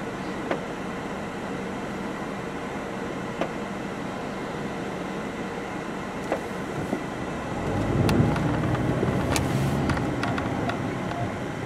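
Inside the cabin of a 2007 Ford Focus, its four-cylinder engine idles steadily while the car stands still. About eight seconds in, the engine note rises into a louder low hum as the car pulls away.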